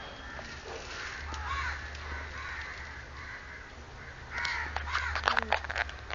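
Newborn Pomeranian-cross puppies, two days old, squeaking and whining in short, arching high-pitched cries, with a louder cluster of cries and clicks near the end.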